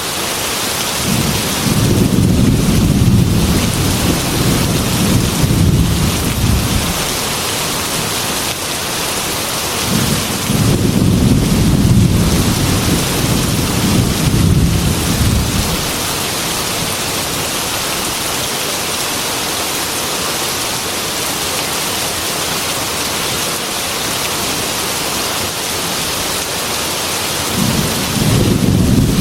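Heavy rain falling steadily, with long low rolls of thunder: two rolls of about six seconds each, and a third beginning near the end.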